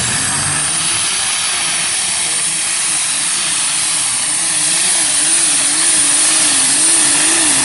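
Turbocharged diesel super stock pulling tractor running hard at full power, a loud roar with a high steady turbo whistle over it and an engine note that wavers up and down.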